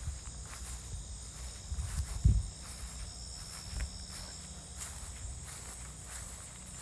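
Insects chirring steadily in a high, even band, over a low rumble on the microphone, with a single dull thump a little over two seconds in.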